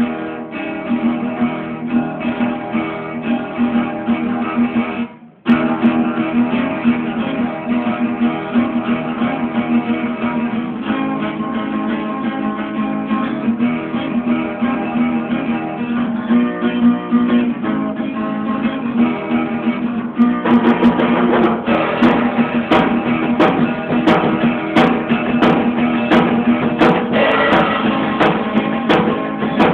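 Acoustic guitar strummed in a steady, quick rhythm, stopping briefly about five seconds in and then going on. From about twenty seconds in the strumming turns harder, with sharp accented strokes about twice a second.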